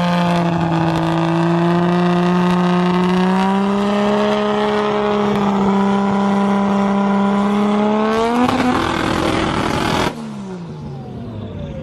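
A modified car's engine held at high revs under hard throttle, the pitch creeping slowly upward, then spiking sharply near the end before the throttle lifts and the revs fall away.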